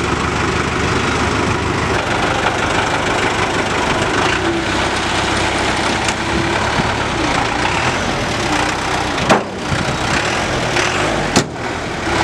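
Willys military truck's four-cylinder diesel engine running steadily, just after being tow-started. Two sharp snaps come in the last few seconds.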